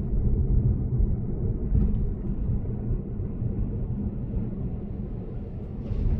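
Lexus GS450h sedan cruising at expressway speed: a steady low rumble of road and tyre noise, with a faint tick about two seconds in.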